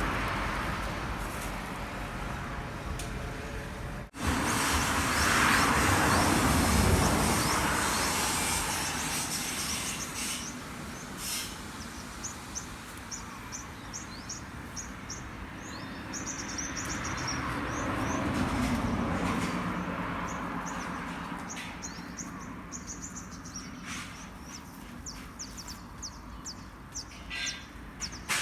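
Road vehicles passing, their noise swelling and fading several times, with small birds chirping repeatedly in the background through the second half. The sound cuts out for an instant about four seconds in.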